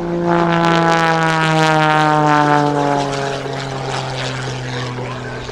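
Pitts S-1-11B aerobatic biplane's engine and propeller passing by at speed, its note sliding steadily down in pitch as it goes past and away, loudest in the first half.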